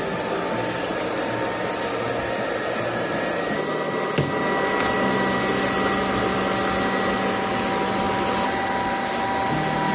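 An electric motor running steadily with an airy rush and a whining tone, with a single sharp click about four seconds in.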